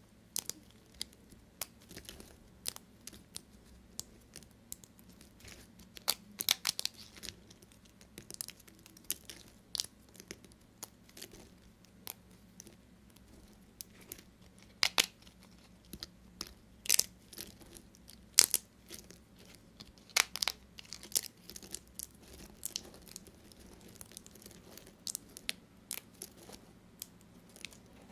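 Knife cutting through bars of dry soap: irregular short, crisp crunching cuts, some louder than others.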